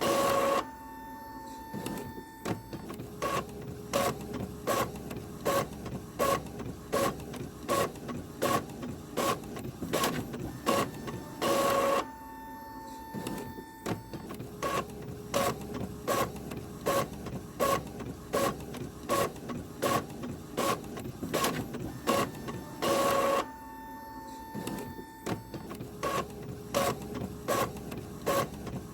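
Printer printing pages in a repeating cycle: a short loud burst about every eleven seconds (three in all), then a pause with a steady hum, then sharp rhythmic clicking about twice a second.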